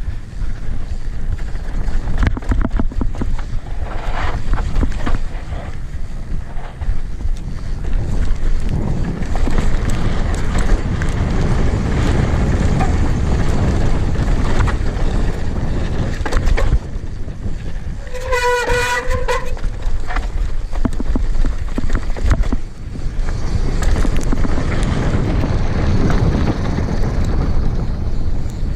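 Steady rushing of a waterfall, with wind buffeting the microphone. A short high-pitched call sounds once about two-thirds of the way through.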